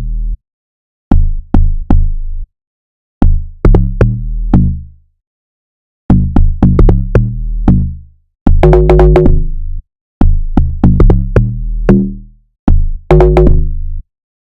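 Electronic drum-machine beat with sharp percussive hits over deep, decaying bass notes, played in short phrases broken by brief silences. It stops about a second before the end.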